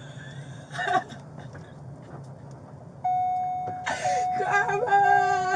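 A steady electronic warning tone starts suddenly about three seconds in and keeps sounding, with brief breaks about once a second. A sob and a voice come around it, over a steady low hum.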